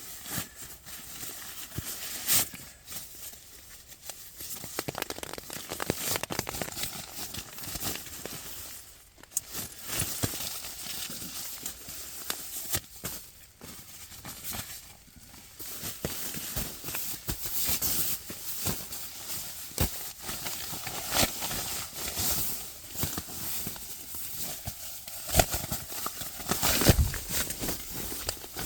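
Irregular rustling and crackling with scattered knocks, the sound of things being handled and stepped on close by.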